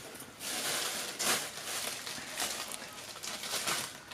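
A shop rag being balled up and pushed into place under a valve in a cylinder head: cloth rustling and scuffing in several short bursts.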